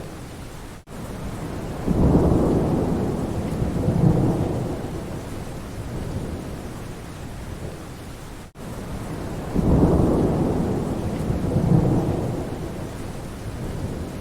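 Steady rain with thunder rumbling twice, about eight seconds apart; each roll comes in suddenly, swells a second time and fades slowly. The sound cuts out for an instant just before each roll.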